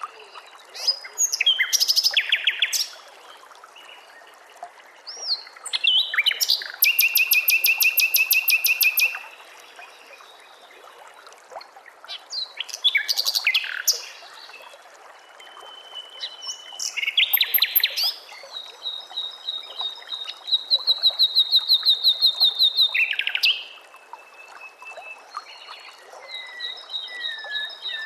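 A songbird singing loud, separate phrases of fast repeated notes, with a long rapid trill of about three seconds in the second half and lower sliding notes near the end, over a faint steady hiss.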